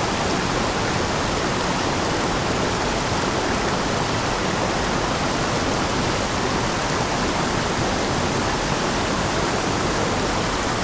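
Small backcountry waterfall pouring into its plunge pool: a steady, even rush of falling water that does not change.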